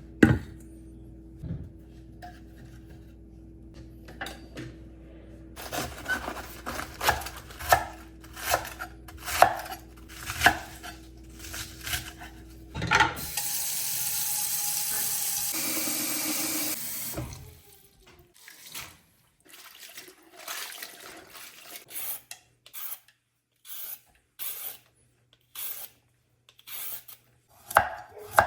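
Kitchen sounds of cooking prep. A run of scraping and clattering strokes comes first, then a tap runs steadily for about four seconds near the middle, then there are scattered light knocks and clicks of dishes and utensils.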